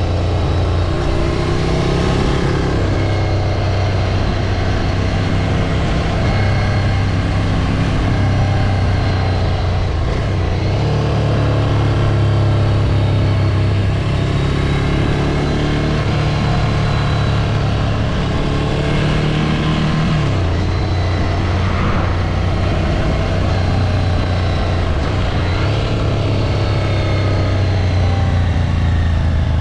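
Ducati Scrambler 803's air-cooled L-twin engine running as the motorcycle is ridden, at fairly steady revs. The engine note steps up about ten seconds in and drops back about twenty seconds in.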